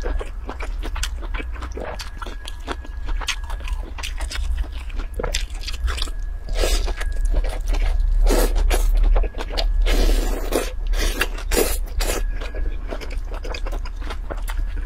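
Close-miked chewing and crunching of a dressed cold salad of pale noodle-like strips with carrot and greens, with many wet mouth clicks and a slurp of strips near the middle. Chopsticks scrape the glass bowl, all over a steady low hum.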